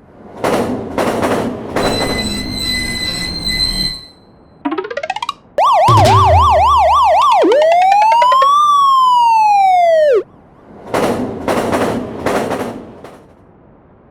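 Police siren: a few quick rising chirps, then a fast up-and-down yelp, then one slow wail that rises and falls and cuts off suddenly. Rushing bursts of noise come before and after it.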